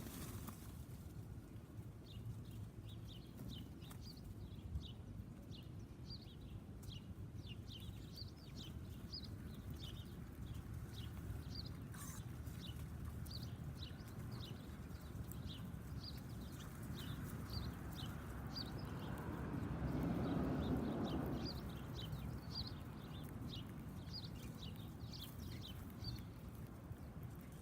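Small backyard birds chirping busily: short, high chirps several a second, overlapping throughout. A low rushing sound swells and fades about two-thirds of the way through.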